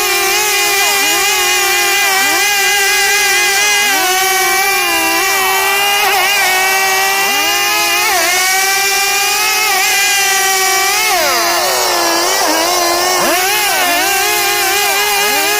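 STIHL two-stroke chainsaw running at high revs while cutting wood, its pitch dipping briefly again and again as the chain bites, with a longer, deeper drop in revs about eleven seconds in.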